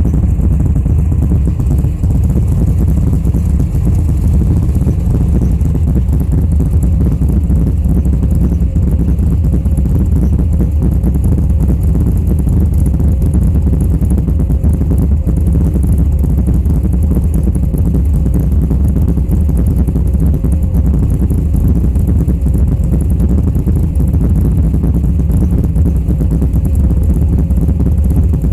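Engine exhaust running through Dynomax aftermarket mufflers, a loud, steady low-pitched rumble that holds the same level throughout with no revving.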